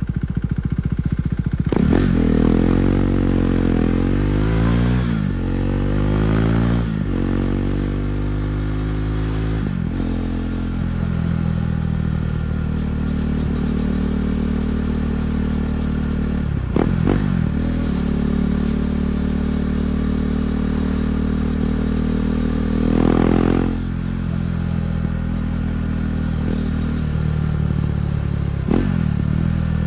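KTM 390 Duke's single-cylinder engine through an Akrapovic exhaust, accelerating up through several gears with the pitch climbing and dropping at each shift, then cruising at a steadier engine speed. A short rev rise comes about 23 seconds in.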